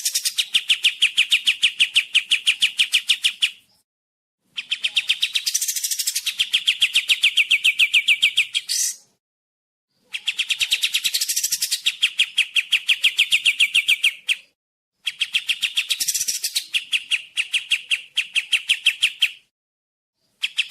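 Kapas tembak songbird singing a rapid, even trill of sharp repeated notes, about eight a second. It comes in bouts of about four seconds with short pauses between them.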